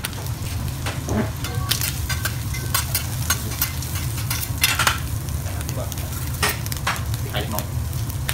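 Egg, rice and shrimp sizzling on a hot steel teppanyaki griddle while a metal spatula and fork scrape and tap against the plate in short, irregular clicks. A steady low hum runs underneath.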